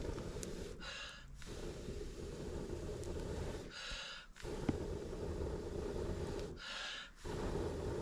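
A person blowing hard and steadily on a cooking fire's embers to get it burning, each long blow broken by a quick sharp in-breath about every three seconds, three times.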